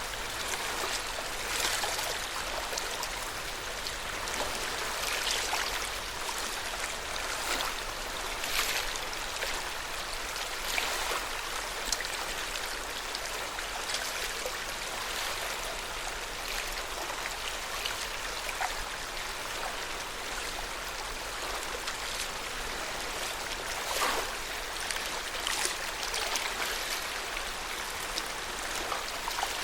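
Lake water at the shore: a steady wash of water with small, irregular splashes every second or two.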